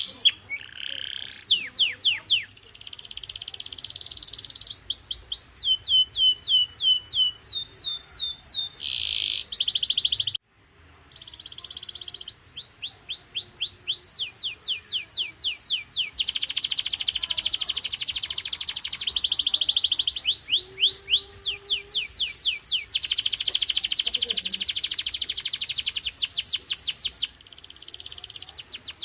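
Domestic canary singing a long song made of fast rolling trills and series of quick falling notes repeated several times a second, the phrases changing every few seconds. There is a brief pause about ten seconds in.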